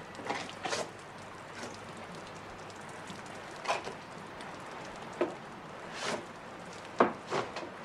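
Steady rain hiss, with a few irregular footsteps and scuffs on a gritty floor, more of them near the end.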